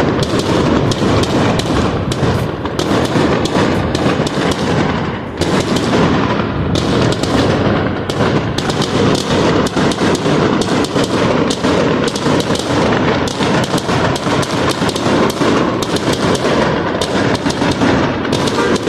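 Fireworks going off in a rapid, continuous barrage, with dense overlapping bangs and crackling and no pause between bursts.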